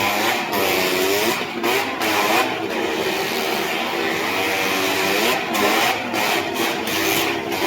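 Stunt vehicle engines revving, rising and falling in pitch again and again over a steady hiss.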